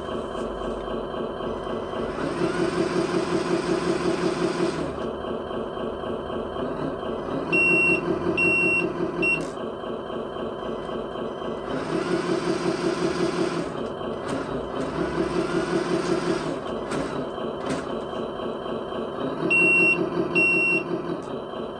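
Electronic RC truck sound module (LESU) playing a simulated truck diesel engine through a small speaker: it idles steadily and revs up in several short swells. A reversing beeper sounds in short beeps twice, three beeps about a third of the way in and two near the end.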